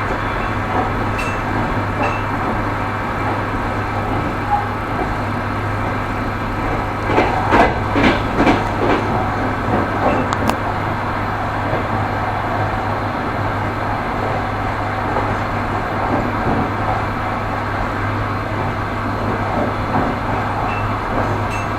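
Railway carriage wheels rolling on the rails with a steady rumble and low hum. A run of sharp knocks about seven to nine seconds in is the clack of wheels passing over rail joints.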